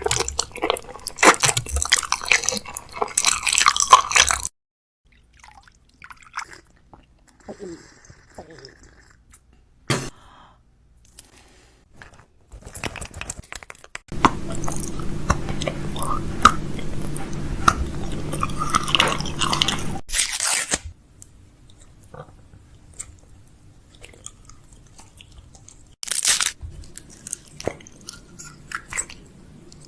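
Plastic snack packaging crinkling and rustling as snacks are unpacked and restocked, with a few sharp clacks. It comes in several short clips that cut in and out abruptly.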